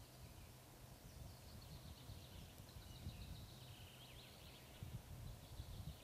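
Faint songbird twittering and trills in the background, over a low rumble and a steady low hum.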